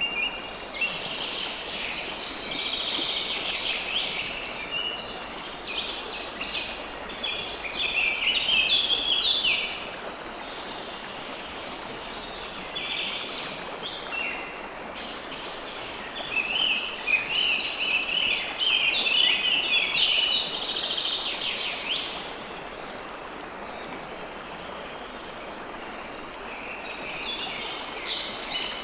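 River water flowing steadily, with songbirds chirping busily over it in bouts: roughly the first third, again through the middle, and once more near the end.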